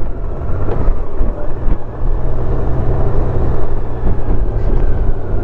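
Honda Gold Wing motorcycle underway, a steady low engine and road rumble with wind noise buffeting the microphone.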